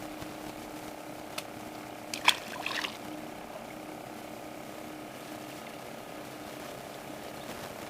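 Steady mechanical hum with a short cluster of sharp knocks and clatter about two seconds in.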